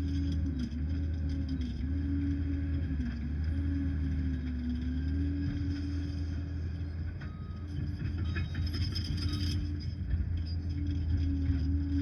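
Liebherr 746 crawler dozer running under work, its diesel engine droning steadily with a whining tone that dips in pitch now and then as it takes load. A short stretch of metallic clatter and squeaks comes about eight seconds in.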